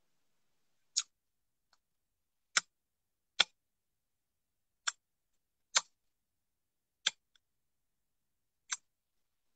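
Chewing watermelon close to the microphone: about seven short, sharp clicks and crunches at uneven intervals.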